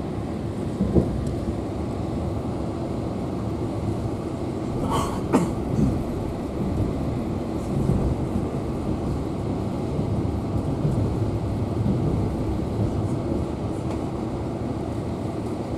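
Passenger train carriage heard from inside, rolling steadily over the rails. There is a sharp knock about a second in and a pair of sharper clacks around five seconds in.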